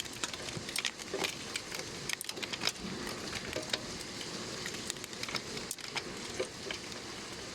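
Heavy rain hissing steadily, with irregular sharp taps of hailstones striking throughout.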